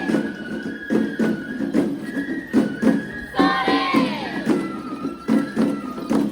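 Japanese festival music: a drum beating a steady rhythm, about two to three strokes a second, under singing voices and held high tones, with twice a falling, gliding call.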